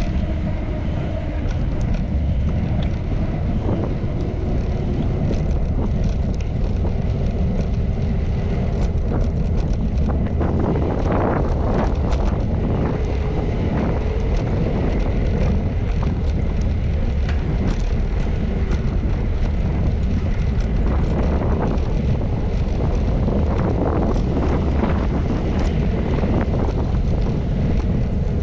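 Wind buffeting the microphone of a camera riding on a moving bicycle, a steady low rumble, with passing traffic mixed in and noisier stretches about eleven seconds in and again after twenty seconds.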